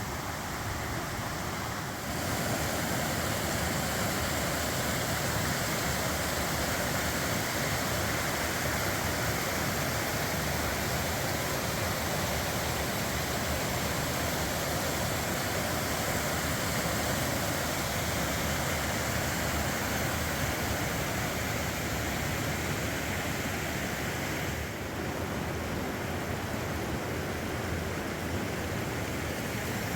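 Small creek waterfall pouring steadily, a full, even rush of falling water, flowing high after recent rain.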